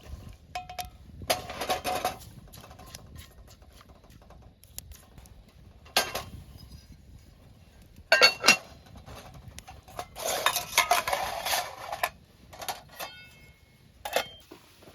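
Metal cookware and utensils clinking and clattering in several separate bursts of knocks, some with a brief metallic ring.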